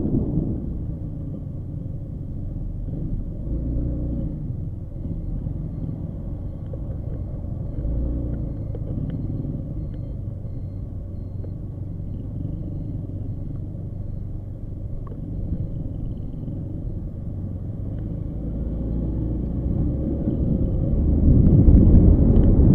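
Motorcycle engine running with a steady low rumble that grows louder over the last few seconds.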